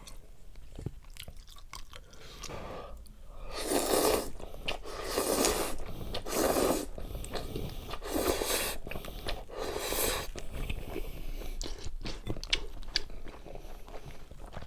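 Close-miked eating: chewing and biting food, with many small crunchy clicks and a few louder noisy bursts between about four and ten seconds in.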